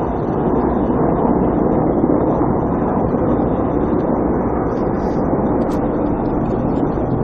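Several military helicopters flying in formation, a loud steady drone of rotors and turbine engines.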